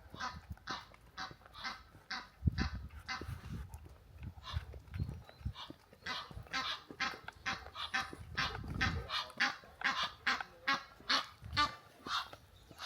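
A dog breathing hard in quick, even puffs, about three a second, with a few low thumps among them.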